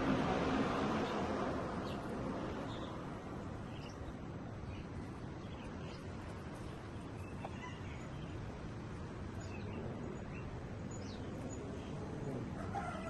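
Short, scattered chirps and call notes from white-rumped shamas, over a steady low background rumble that is louder in the first couple of seconds.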